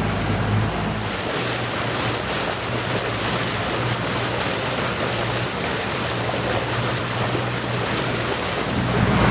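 Steady rushing of wind and water noise, with a low steady hum that fades about a second in and comes back near the end.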